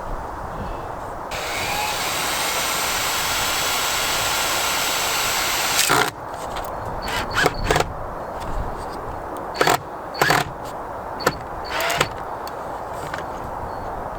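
A handheld power tool runs steadily for about four and a half seconds with a high whine, then cuts off. A scatter of sharp knocks and taps follows.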